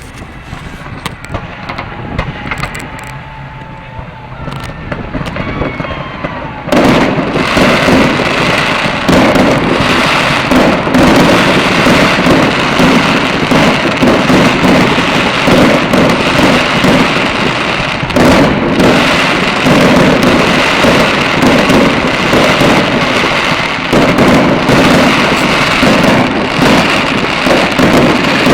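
Fireworks display, quieter at first, then about seven seconds in breaking into a dense, continuous barrage of overlapping bangs and booms that goes on without a break.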